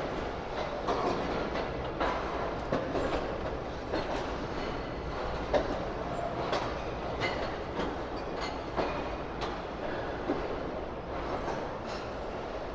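Pakistan Railways passenger train running on the rails: a steady rumble with irregular clicks and clunks of the wheels over rail joints.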